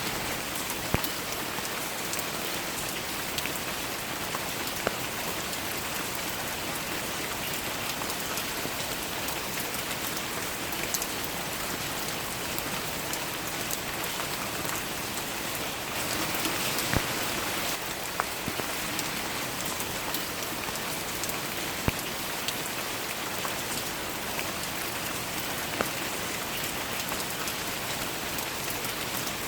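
Steady rain falling, an even patter with scattered louder drops ticking on a close surface; it swells slightly for a couple of seconds around the middle.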